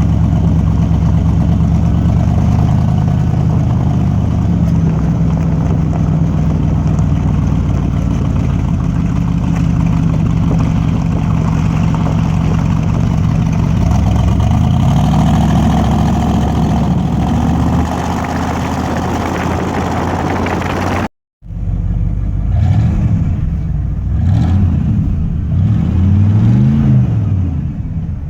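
Ford 390 FE V8 of a 1974 F-100 running through 2 1/4-inch dual exhaust with glass-pack mufflers. It holds a steady, deep note for about twenty seconds; then, after a brief cut, it is revved in several quick blips that rise and fall.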